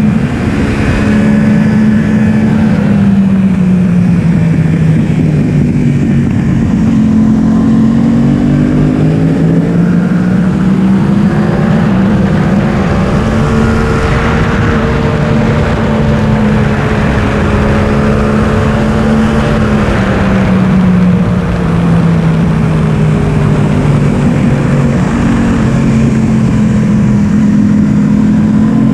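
Yamaha R1 inline-four engine heard onboard at track speed, revs falling and rising several times as the bike brakes and accelerates, over steady wind rush.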